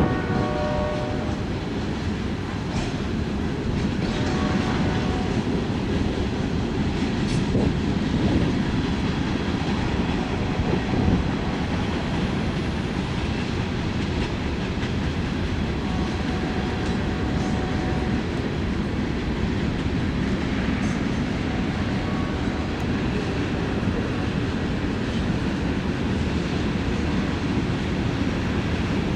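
Freight train rolling past, a steady rumble of wheels on the rails with occasional clicks. A locomotive horn sounds at the start and stops about a second in.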